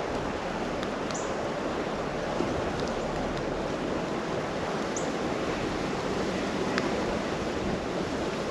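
Steady outdoor rushing noise at a snowy bird feeder, with a few brief, faint high chirps from small birds about a second in and around five seconds in.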